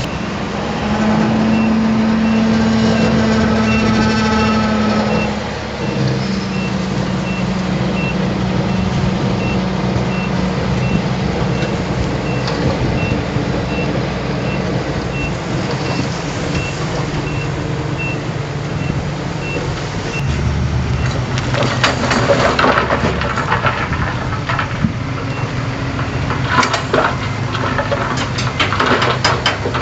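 Heavy truck's diesel engine running, pitch rising briefly in the first few seconds, with its reversing alarm beeping about twice a second. The beeping stops about twenty seconds in, and irregular clattering knocks follow.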